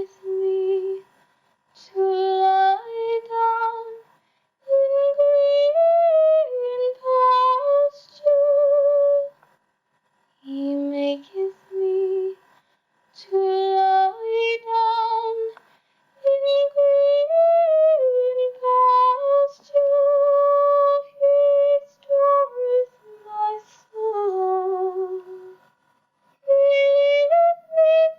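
A cappella singing: a single voice line with vibrato and no instruments, in phrases a few seconds long broken by short pauses.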